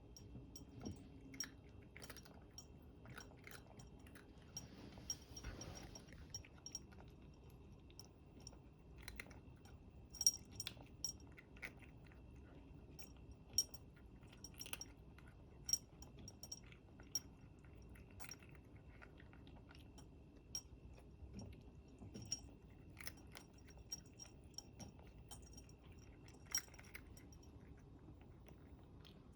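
A pet chewing crunchy food, with irregular crisp crunches and clicks, sometimes several a second, over a quiet room.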